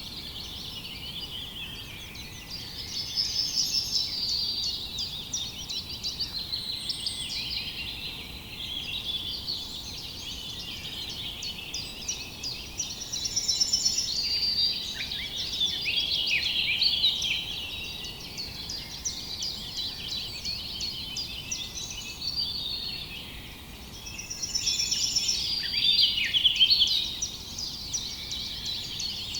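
A chorus of many small songbirds chirping and trilling at once, dense and continuous, growing louder and busier in a few stretches, over a faint background hiss.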